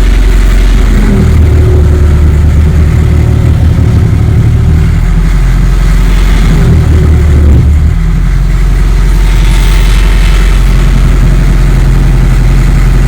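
Caterpillar 215 excavator's diesel engine running, its pitch shifting a few times in the first eight seconds, then holding steady.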